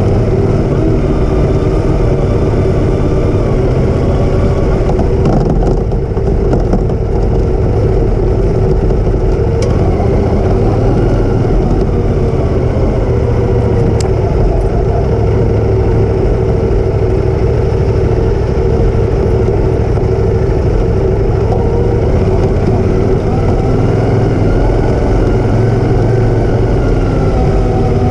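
Motorcycle engine running steadily at an even, loud level, its pitch wavering slightly near the end.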